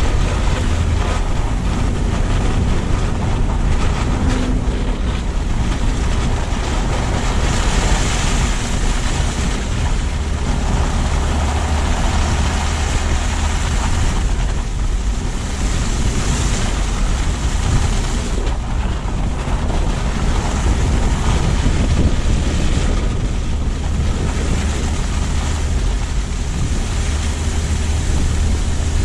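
Car driving along a road: steady tyre and road noise with a low rumble, and wind buffeting the low-mounted GoPro's microphone. The noise swells briefly about eight and sixteen seconds in.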